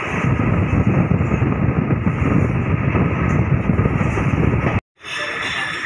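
Steady rumble and rush of a moving passenger train, heard through an open coach window. It cuts off abruptly near the end, and a quieter, different sound takes over.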